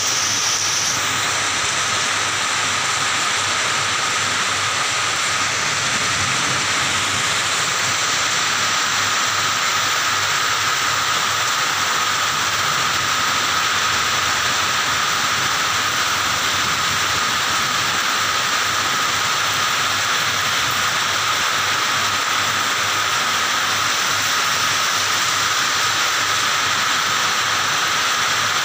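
Steady rain falling, an even hiss with no break, and a faint steady tone running through it.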